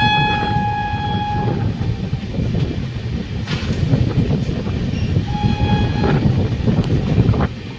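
Train running on the track with a steady low rumble, as the locomotive horn sounds one long blast at the start and a shorter blast about five seconds in.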